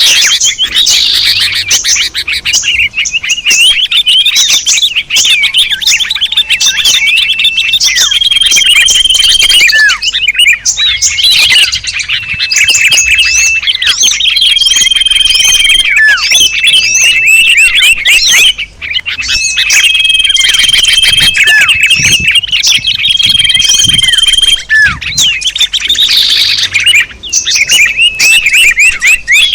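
Bird-lure (pikat) recording of many small birds calling at once: a dense, continuous mass of quick chirps and twitters, with short held whistles recurring every few seconds.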